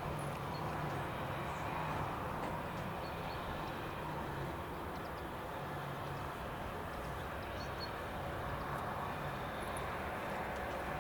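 Steady outdoor background noise with an on-and-off low hum and a few faint, brief high chirps.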